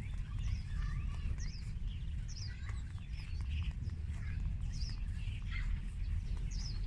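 Small birds chirping: many short, quick, high chirps and twitters overlapping all through, over a steady low rumble.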